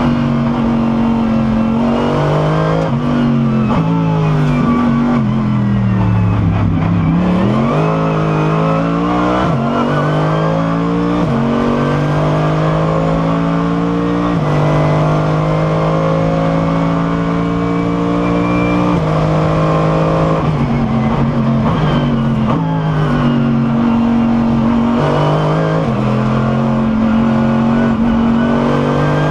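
Mercedes SLS AMG GT3 race car's V8 engine heard from inside the car at racing speed. It pulls up through the gears with a sharp drop in pitch at each upshift and blips down through the gears under braking about seven seconds in, then holds long, steady high-rev pulls.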